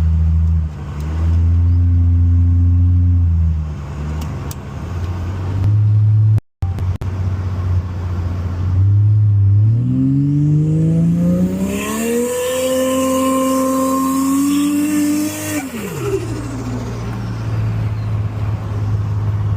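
Ford Fairmont's engine run up hard under full throttle for a wheelspin: the pitch climbs over about three seconds, holds high for about four seconds with a hiss over it, then drops suddenly back to a steady low drone.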